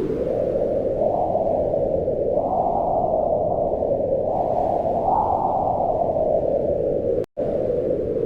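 Low, steady wind blowing, swelling into gusts a few times. It cuts out for a split second near the end.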